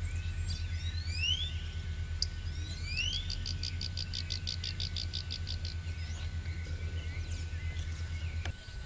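Tropical birds calling: several quick rising whistles and a fast, even trill of about eight notes a second, over a low pulsing hum that stops near the end.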